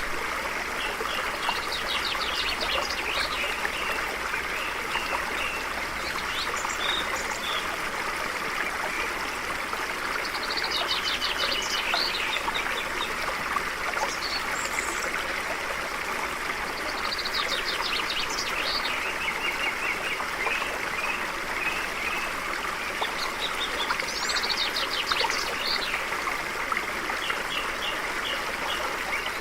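Stream flowing steadily, with a songbird singing a fast, high trill again and again, roughly every seven seconds.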